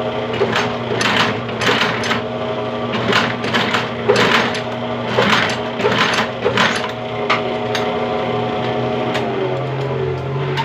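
Sewing machine stitching shoe leather: sharp needle strokes click irregularly, about one or two a second, over a steady motor hum that drops in pitch near the end.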